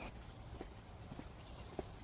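Faint footsteps on a path, a light tap about every half second in a steady walking rhythm.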